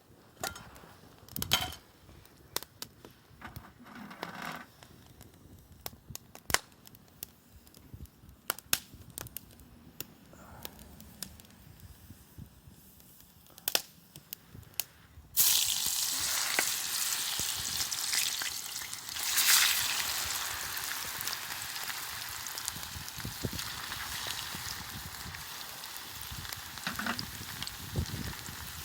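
Food frying in a pan over a campfire: a loud sizzle starts suddenly about halfway through, as the food goes into the hot pan, and carries on steadily. Before it there are only scattered sharp clicks and knocks.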